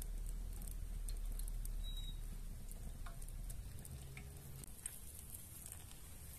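Potato-and-ground-meat patties frying in oil in a pan: a soft sizzle with scattered small pops and ticks.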